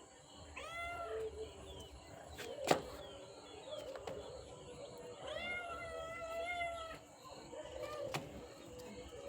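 A cat meowing twice: a short meow that rises and falls about half a second in, then a long drawn-out meow about five seconds in. A sharp click comes between them and is the loudest sound, with a fainter click near the end.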